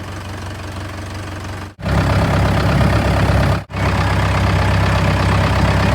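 Tractor engine running steadily, close up, with a low, even hum. It cuts out for an instant twice and comes back louder after the first break.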